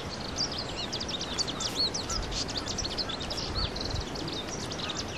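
Small birds chirping and whistling in quick, overlapping short calls over a faint steady background hiss.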